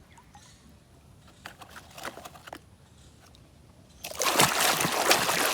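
A few small knocks and splashes, then from about four seconds in, loud water splashing and running as a muddy toy vehicle is washed by hand.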